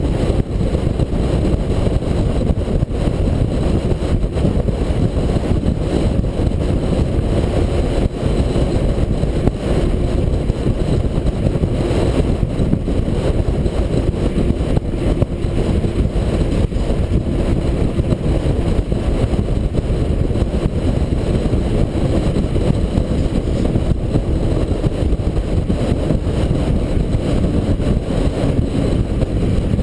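International 4300 dump truck's diesel engine running steadily while the truck drives along the road, a deep continuous rumble with a faint steady drone in it.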